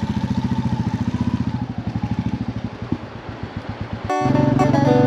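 Royal Enfield motorcycle engine running at low revs with an even, pulsing beat that slows a little two to three seconds in. About four seconds in it cuts off abruptly and background music starts.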